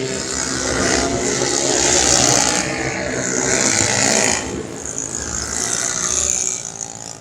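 Racing 125cc automatic scooters going past at full throttle, their engines swelling and fading in several waves before the sound falls away near the end.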